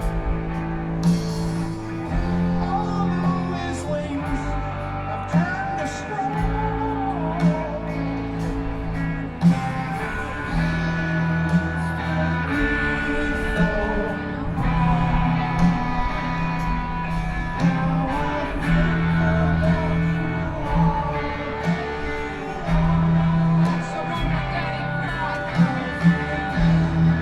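Live rock band playing loud and steady: electric guitars over bass and drums, in a slow, heavy groove.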